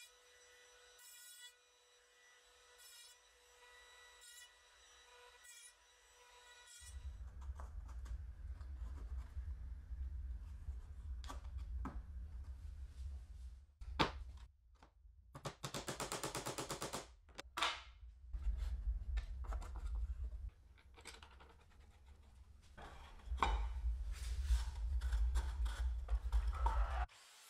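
Workshop work sounds: scattered knocks and rubbing over a low rumble, with a power tool running for about two seconds midway. Faint pulsing tones come first.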